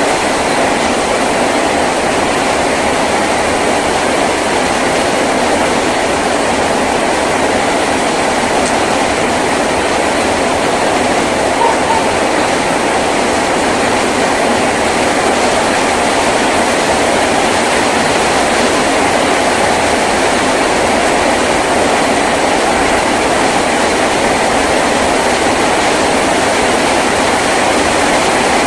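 Heavy rain falling steadily on a tin roof, a dense even drumming with no let-up.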